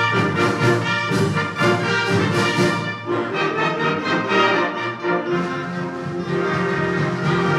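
Concert wind band playing, with the brass prominent: short, accented chords for the first few seconds, then longer held chords.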